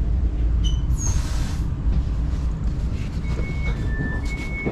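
S-Bahn commuter train standing at a platform: a low steady rumble, a short burst of air hiss about a second in, then from about three seconds a two-tone beep alternating high and low, the door signal.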